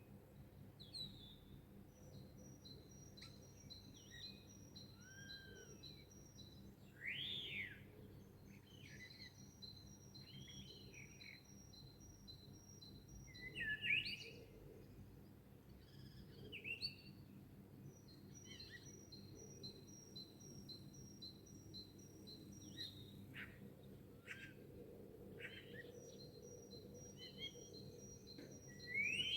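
Songbirds singing in a dawn chorus. One bird repeats quick high notes alternating between two pitches in runs several seconds long, and other birds add scattered chirps and swooping calls. A faint steady hum lies underneath.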